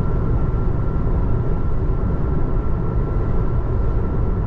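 Steady road noise inside the cabin of a Tesla Model 3 electric car on the move: an even low rumble with tyre hiss from a wet road, and no engine sound.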